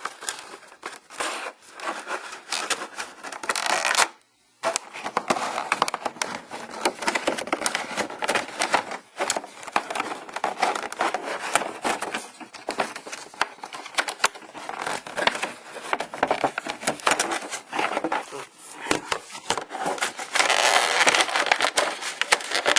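Plastic wrapping crinkling and crackling as it is pulled off a die-cast model airplane, with a brief break about four seconds in.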